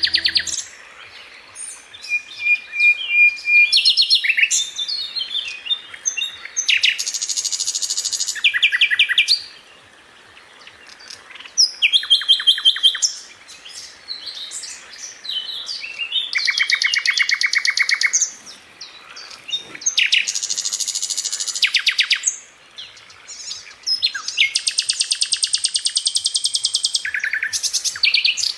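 Songbirds singing: high-pitched chirps and several fast, rattling trills about two to three seconds long, repeated with short pauses between them.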